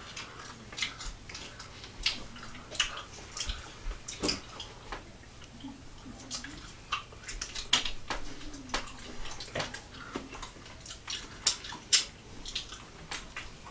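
Close, wet mouth noises of a mouthful of chewy sour pastilles being chewed: irregular smacks and clicks, a few a second.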